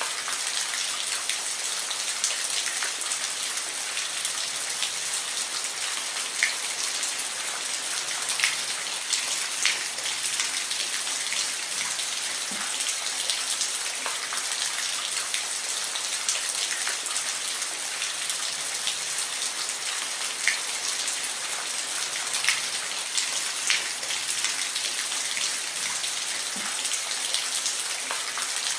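Steady rain falling, a dense hiss with individual drops ticking sharply every second or so.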